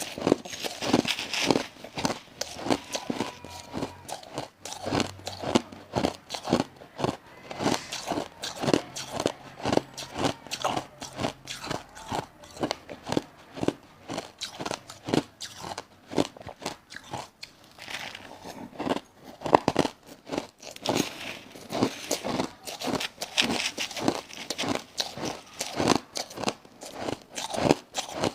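A woman biting and chewing crushed ice close to the microphone: a continuous series of sharp, crackly crunches, several a second.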